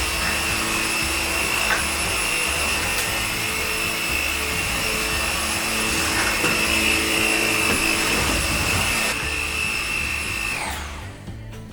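Dreame Z10 Station cordless stick vacuum running with a steady high whine, then switched off near the end, its motor winding down.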